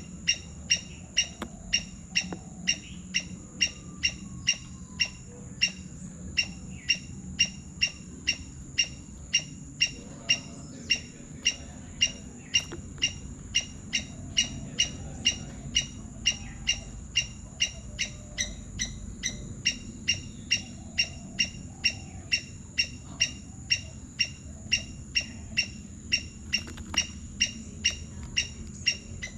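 A bird calling with short, sharp chirps repeated evenly about twice a second without a break, over a steady high-pitched tone.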